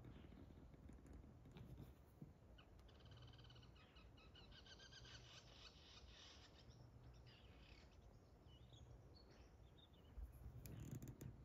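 Faint bird twittering: a run of quick, high chirps starting about three seconds in and lasting a few seconds, then a few short calls, against an otherwise near-silent background.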